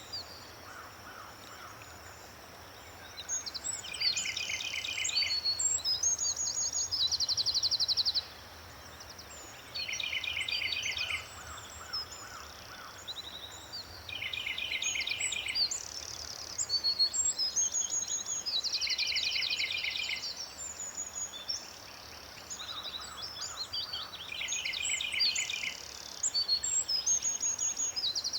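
Several birds singing and calling: fast, buzzy trills and chirps that come back every four to five seconds, over a steady faint background hiss.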